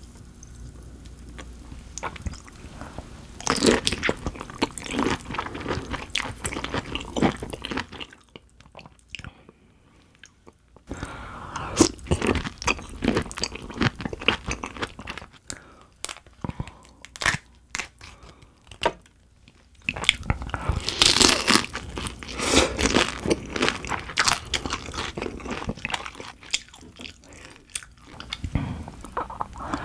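Close-miked biting and chewing of raw dohwa shrimp: dense wet, squelchy mouth sounds with crisp crunching bites, pausing twice to near quiet, with the loudest bites about two-thirds of the way through.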